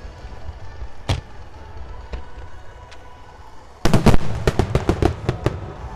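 Aerial fireworks going off: a few separate bangs, then from near four seconds in a rapid volley of bangs and crackles.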